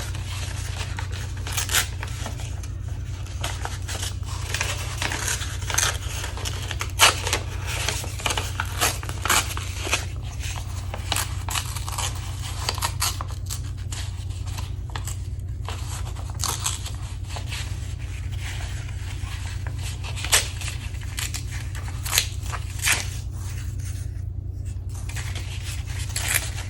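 Gel-printed paper being torn by hand: irregular ripping and crinkling with sharp rips scattered throughout, over a steady low hum.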